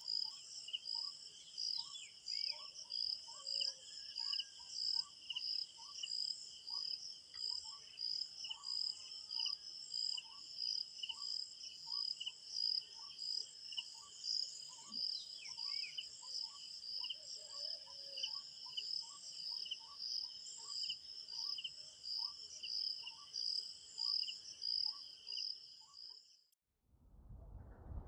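Crickets chirping in a steady rhythm of about two pulses a second, with a second regular series of short, lower notes and a few brief bird calls over it. Near the end the chirping cuts off suddenly, and a different rushing noise starts just before the end.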